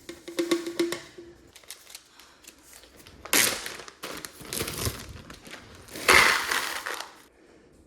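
Crinkling and rustling of paper or plastic being handled, in three loud rustles after some light clicks.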